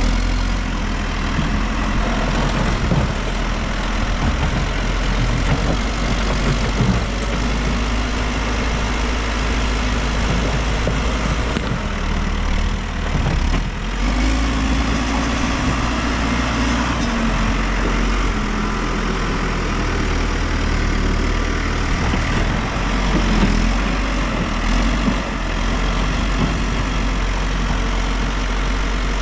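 Diesel engine of a New Holland backhoe loader running steadily while it works, its note shifting now and then.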